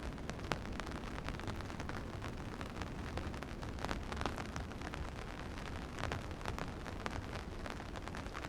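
Steady rain falling, with many irregular sharp drops tapping close by over a constant low rush.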